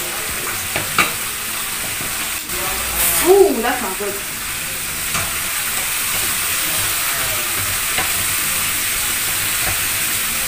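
Fish and tomatoes sizzling steadily in a frying pan, with a few sharp clicks of a utensil against the pan. A brief wavering pitched sound comes about three seconds in.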